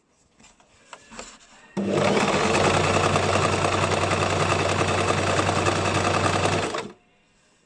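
Basic electric sewing machine stitching in one steady run of about five seconds, starting suddenly a couple of seconds in and stopping sharply near the end. A few faint handling clicks come before it.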